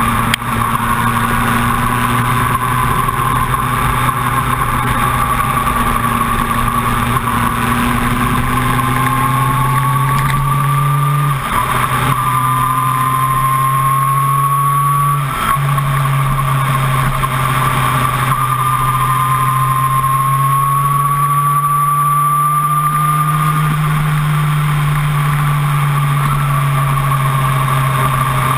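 Sport motorcycle engine pulling hard at high speed, heard from the rider's seat, its pitch climbing gradually as the bike accelerates. Two brief dips, about 11 and 15 seconds in, where it shifts up a gear.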